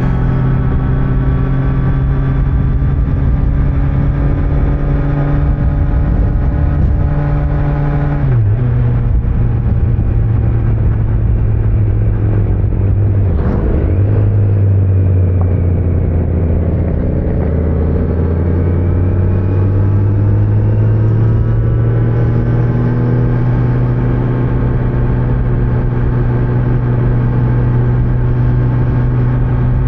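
2025 Kawasaki Z900's inline-four engine running under way on its stock exhaust, over steady wind and road noise. The engine pitch drops suddenly about eight seconds in and again near fourteen seconds, then climbs slowly as the bike picks up speed.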